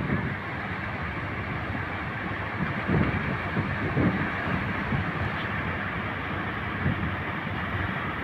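Large ocean waves breaking, a steady wash of surf noise, with wind buffeting the microphone in occasional low thumps.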